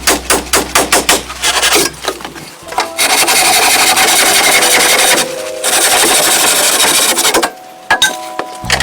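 Rapid hammering, about four blows a second, over a low steady hum. It gives way to two long stretches of steady harsh rasping noise with a short break between them, and a single knock comes near the end.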